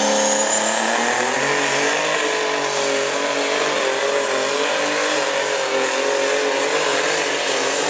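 Super stock pulling tractor's turbocharged engine running at full throttle during a pull: a loud, steady engine drone, with a high whine rising over the first second.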